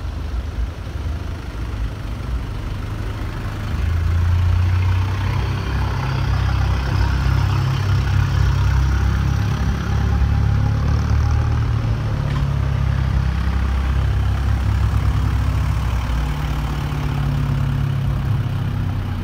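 Car engine and exhaust running with a deep, steady drone as a vehicle drives slowly past, getting louder about four seconds in.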